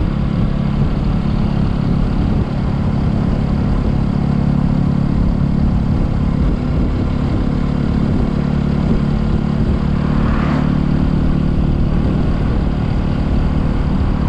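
Motorcycle engine running steadily while riding, with road and wind noise. There is a brief dip in level about two and a half seconds in and a short higher-pitched sound about ten seconds in.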